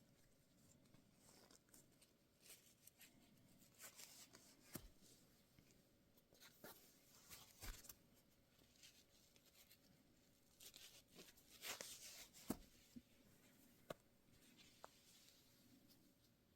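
Faint rustling of fabric and hair with scattered light clicks and ticks, from a heatless curling wrap being unwound and pulled out of dry hair; near silence otherwise.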